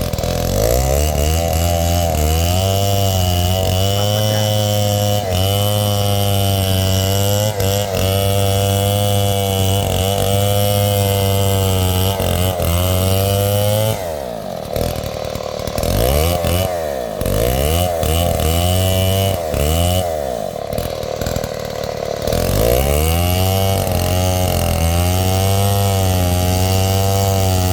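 A '707' chainsaw running hard while cutting into wood, its engine pitch wavering under load. About halfway through, the revs fall and climb several times before it settles back into steady cutting for the last few seconds.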